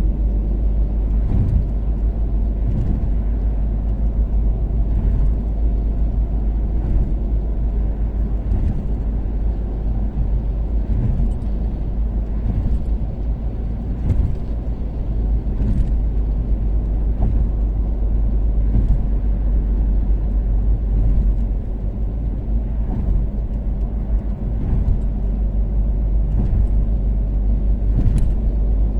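Toyota Caldina with a turbocharged 3S-GTE engine cruising on an expressway: a steady, loud low rumble of engine and tyres with a faint engine hum. Light ticks recur every second or two.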